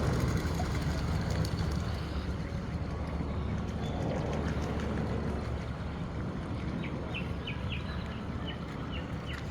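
Wind buffeting the microphone over a steady outdoor rumble. In the last two seconds or so, a quick run of short, high chirps from small birds.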